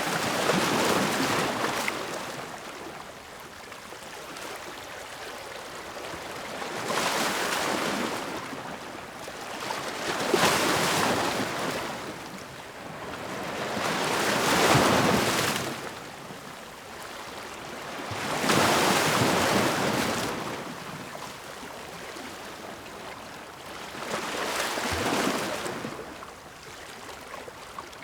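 Ocean waves breaking on the shore, each wash of surf swelling and receding in turn, about six in a row every four to five seconds.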